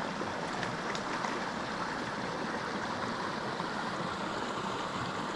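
Small mountain creek flowing steadily, an even rushing of water.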